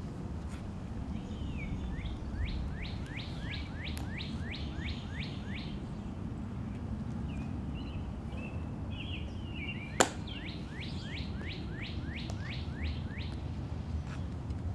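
A songbird singing two runs of about ten quick, down-slurred whistled notes each, over steady low background noise. A single sharp click sounds about ten seconds in.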